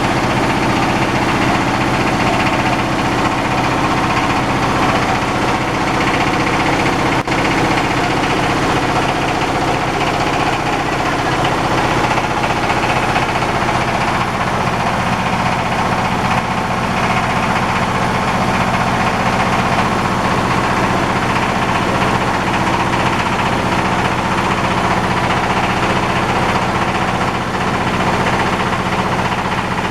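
Diesel engine driving a rice husker, running steadily at a constant speed.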